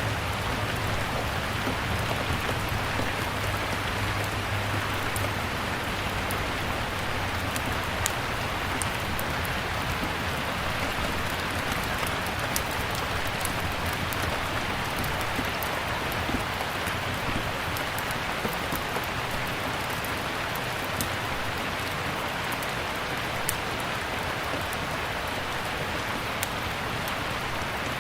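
Steady, even rainfall, with scattered sharp crackles and pops from a wood fire in a fireplace throughout.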